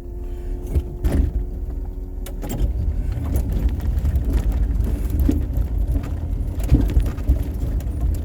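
Snowplow vehicle's engine running under load with a steady low rumble, heard with rattles and a few sharp knocks, one about a second in, another about two and a half seconds in, and one near the end.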